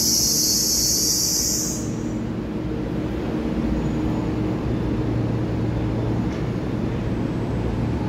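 Electric multiple-unit train pulling out of an underground station platform: a steady low rumble of wheels and motors with a hum. A high-pitched shrill buzz runs over it and cuts off about two seconds in.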